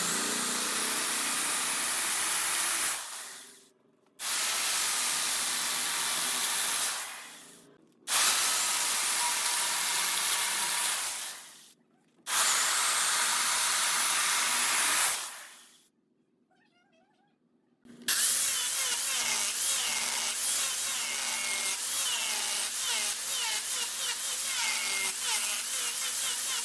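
Wood being cut on a lathe: a turning tool scraping and shaving spinning wood. It comes in four bursts of a few seconds each, broken by short silences. From about two-thirds of the way in it runs on steadily, with high squeaks and squeals in it.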